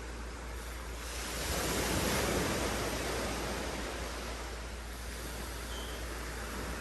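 Wind blowing, swelling into a gust about a second and a half in and then easing off.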